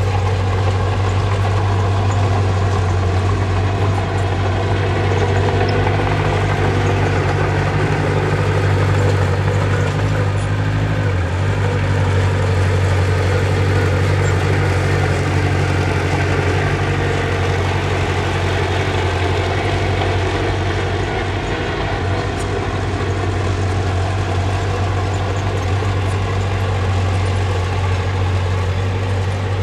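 Heavy machinery diesel engine running steadily with a deep, even hum, changing briefly about eleven seconds in.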